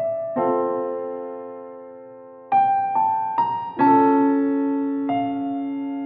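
Slow solo piano music: single notes and chords struck every second or so, each left to ring and fade.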